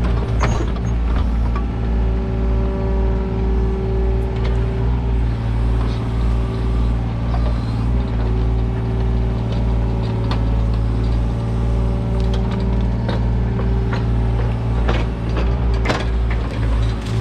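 Kubota U55-4 mini excavator's diesel engine running steadily at constant speed, with scattered sharp metal clanks and knocks from the machine working.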